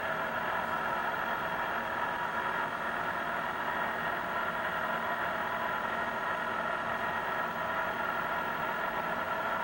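Steady machinery hum inside a deep-sea submersible, many steady tones over an even hiss, unchanging throughout.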